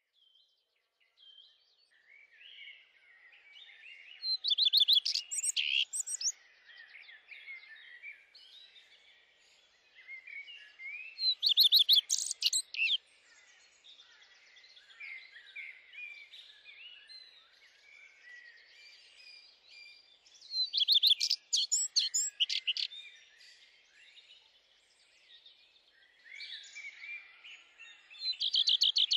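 Songbird singing: a continuous stream of varied twittering notes, broken four times by a loud, rapid trill.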